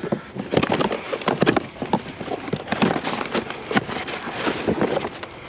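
Irregular knocking, rattling and rustling of scrap being rummaged through by hand: boxes holding rolls of wire being handled.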